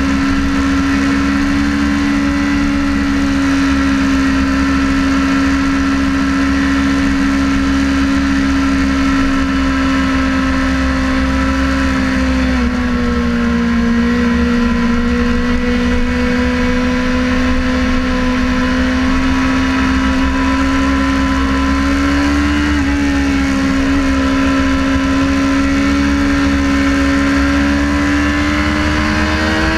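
Sportbike engine running at steady high revs, recorded onboard, with wind rumble underneath. The pitch dips briefly twice and climbs near the end as the throttle changes.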